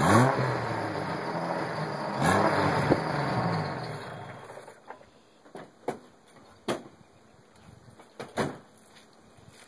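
1993 Jeep Cherokee's 4.0-litre straight-six through a Flowmaster 40 series exhaust, revved twice with rising pitch. The engine then falls silent about four and a half seconds in, and a few sharp clicks follow.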